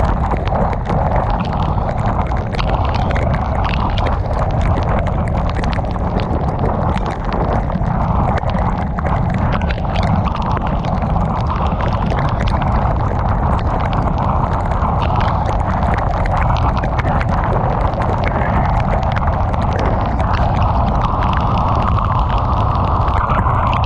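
Heavy rain hitting a moving car, with many sharp drop impacts over a steady low rumble of tyres on the wet road and wind.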